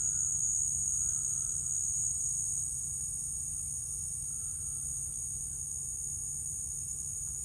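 Steady, high-pitched insect chorus, cricket-like, over a low rumble.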